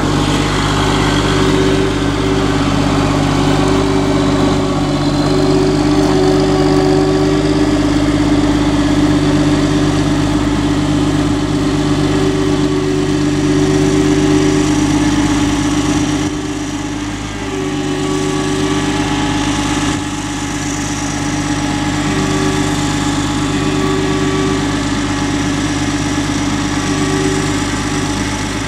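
CAT snowmobile-trail groomer's engine running steadily at a low, even speed, with a constant hum. Its level dips briefly about two-thirds of the way through, then settles a little lower.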